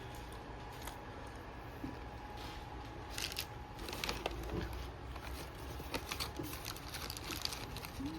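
Food packaging crinkling and rustling in scattered short bursts over a low steady hum.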